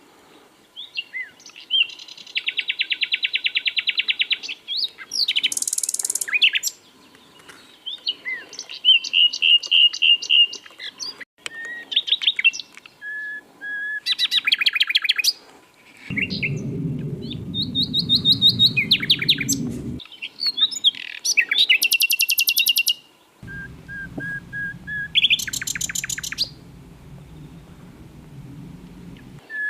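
Common nightingale singing: a run of varied phrases, each a second or two of rapidly repeated notes, whistles and fast trills, with short pauses between them. A low rumble sits under the song twice, for several seconds each time.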